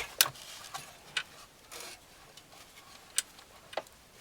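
Scattered light clicks and taps of small parts being handled during a dashboard stereo install, about five sharp clicks with a brief soft scrape a little after the second one.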